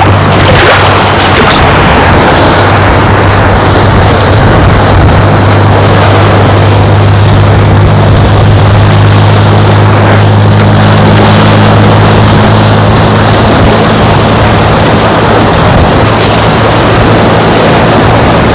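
A boat's engine drones steadily as a low hum, a little stronger midway, over loud wind and surf noise.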